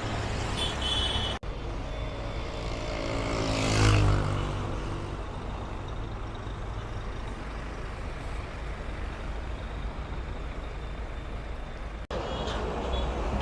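Road traffic noise, with a heavy vehicle passing close about four seconds in, its engine note falling as it goes by. The sound cuts out abruptly twice.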